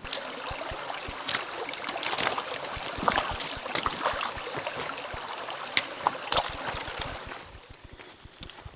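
Water splashing and trickling, with irregular knocks and clacks. It eases off about seven seconds in, leaving a steady high-pitched hum.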